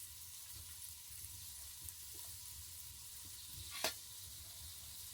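Food frying in hot oil in a pan, a steady sizzle, with one sharp click a little before the end.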